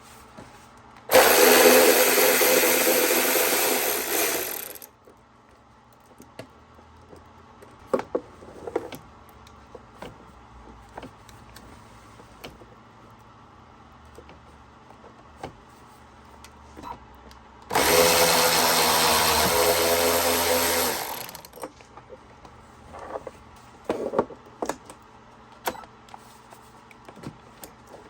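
A power tool with a socket runs twice, about three and a half seconds each time, spinning out the two 10 mm bolts that hold a bracket on the timing belt cover. Light metallic clicks and knocks of tool and parts handling come between the two runs.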